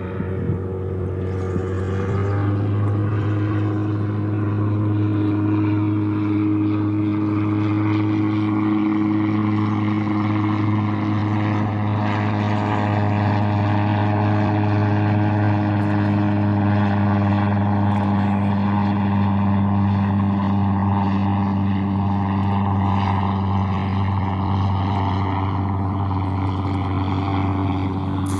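A steady, loud engine drone with a deep hum and several held overtones, running unbroken for the whole stretch while its upper overtones shift slowly in pitch.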